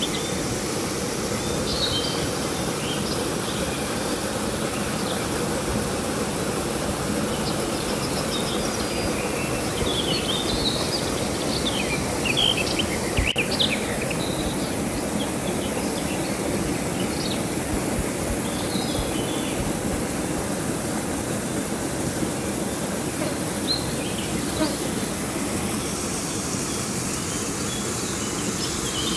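Steady rush of river water, with birds chirping on and off, most often around the middle, over a constant high insect drone.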